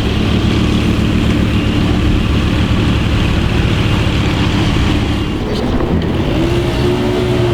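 Lamborghini supercar engine running steadily. About six seconds in, a higher, steady engine note comes in.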